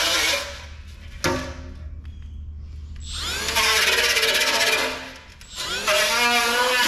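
Cordless power tool running in bursts of a second or two, its motor speeding up at the start of each burst and dropping out between them. The owner blames the battery for the tool cutting out.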